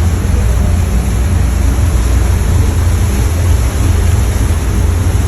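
Fishing boat's engine running steadily, a loud low rumble with a hiss of wind and water over it.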